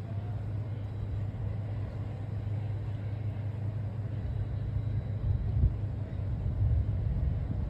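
A steady low mechanical drone, with a constant hum beneath a light noisy wash.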